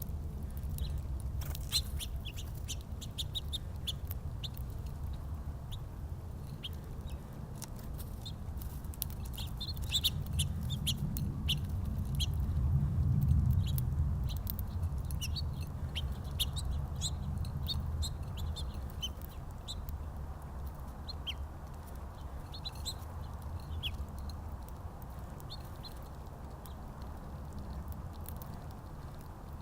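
Small birds at a backyard feeder giving many short, scattered chirps and chips, over a low steady rumble that grows louder about halfway through and then fades back.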